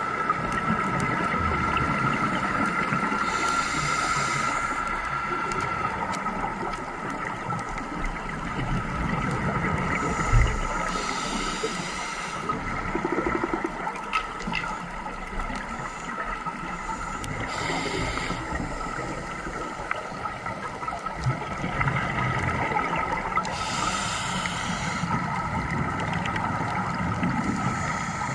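Underwater sound of scuba diving: the regulator's exhaled bubbles rush past in bursts about every six or seven seconds, over a steady high-pitched hum.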